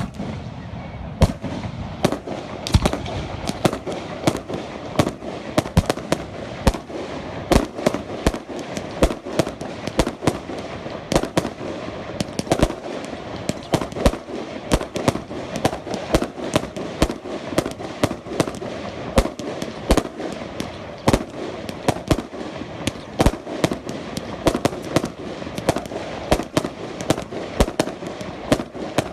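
Fireworks going off without a break: a dense stream of sharp bangs and cracks, several a second, over a steady rumble of more fireworks.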